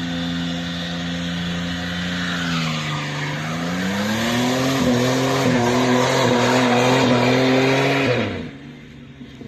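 V6 Chevy Camaro engine with a rod knock, held at high revs during a burnout. The revs dip about three seconds in, then climb again as the spinning rear tires add a loud hiss and squeal. Everything drops off suddenly about eight seconds in.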